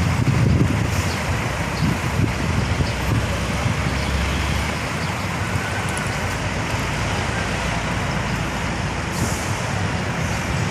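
Steady low rumble of bus engines and road traffic, with a short hiss about nine seconds in.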